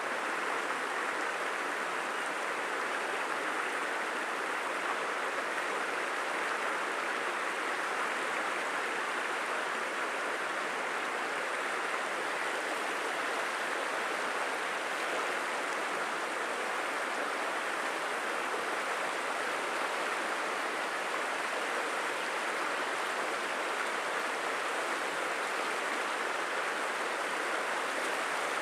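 Creek water running steadily, an even rushing hiss with no breaks or single events.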